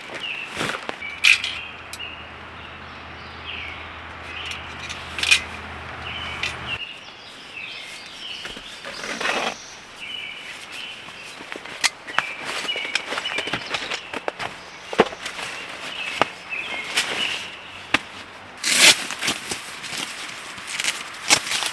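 Footsteps, rustling and scattered knocks of camping gear being handled, with small birds chirping again and again in the background.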